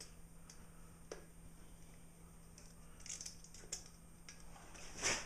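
Blade cutting into a 15-inch subwoofer: faint scattered scrapes and clicks, then a louder, longer scrape near the end.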